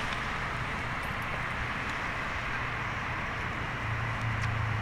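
Steady rush of surf and wind, with a low rumble and a few faint crackles from the bonfire.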